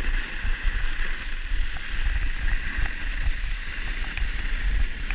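Wind buffeting the microphone in an uneven low rumble, over a steady higher hiss.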